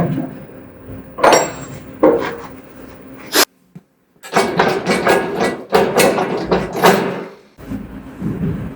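Knocking and clattering of sawmill bed parts being handled and fitted, in several separate bursts, with a sharp click just before a brief silent gap about halfway through.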